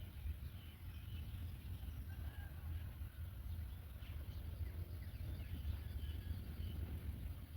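A steady low rumble, with faint, scattered short bird chirps over it.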